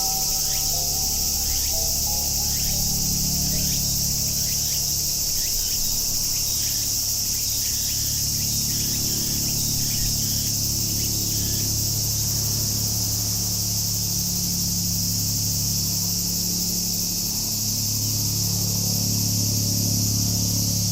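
Cicadas in a steady, loud chorus of summer song. Over it come short, repeated chirping calls in the first half. A low engine hum from distant traffic or aircraft grows stronger toward the end.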